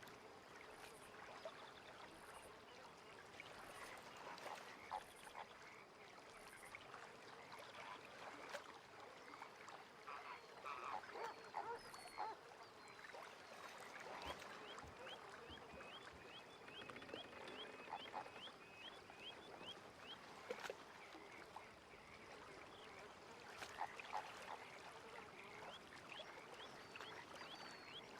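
Faint lakeside ambience with scattered calls of waterfowl and other birds. A run of quick, rising high chirps, about four a second, comes about halfway through and again near the end.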